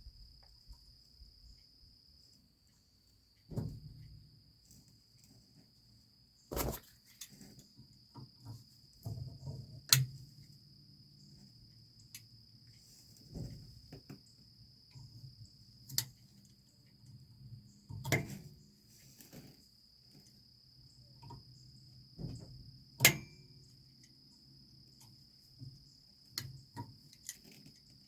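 Crickets chirring steadily, with a scattering of sharp metal knocks and clanks from hand work on the trailer's brake and wheel-end parts, the loudest about ten seconds in and again near twenty-three seconds.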